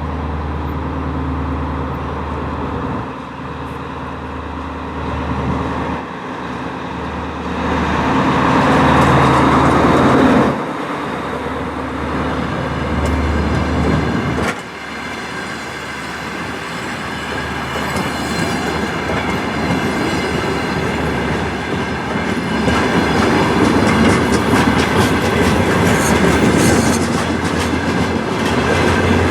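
DR1A diesel multiple unit running, its diesel engine droning with the clatter of wheels over rail joints; the noise swells once about a third of the way in and grows louder again toward the end.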